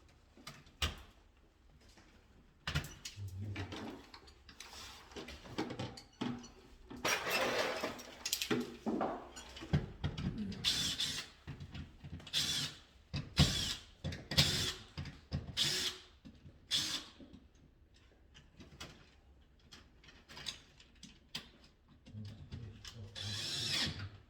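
Hand tools and parts being handled during electrical wiring work: irregular clicks, scrapes and rattles, busiest in the middle.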